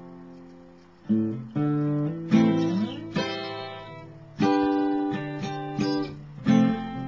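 Acoustic guitar playing strummed chords, each left to ring and fade. A chord dies away at first, then new strums come in from about a second in, one roughly every second.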